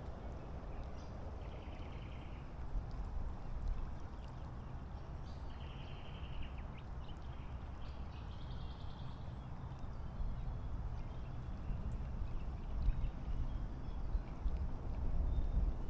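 Riverbank ambience: a steady low rumble of wind and water, broken in the first half by four short, buzzy high-pitched calls.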